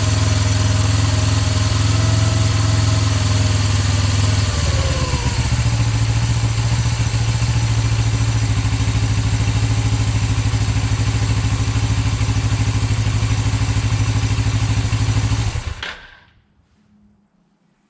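2008 Suzuki GS500E's air-cooled parallel-twin engine idling steadily on its freshly rebuilt carburetors, then shut off about 16 seconds in, the running stopping within a second.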